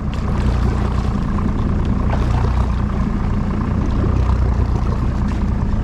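Boat engine running steadily at low revs, a constant low hum with wind and water noise over it.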